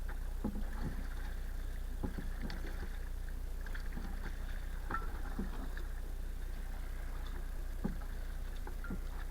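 Kayak on the water: scattered small splashes and light knocks from the paddle strokes, over a steady low rumble.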